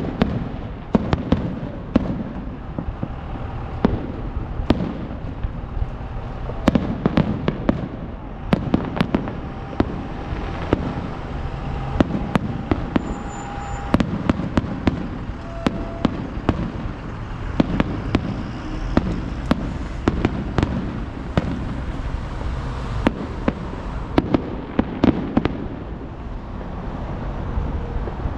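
Aerial fireworks going off in rapid succession, many sharp bangs and crackles a second over a continuous low rumble of overlapping booms.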